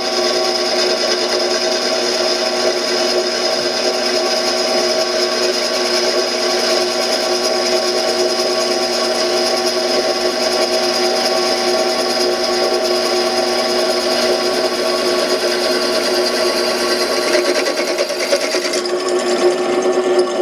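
Drill press running steadily with its bit cutting through a metal bracket, a continuous machine hum with a fixed whine.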